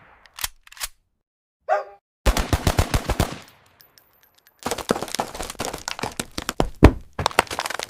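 Machine-gun fire sound effects in two rapid bursts: a short burst of about a second, then a longer, denser burst of about three seconds near the end.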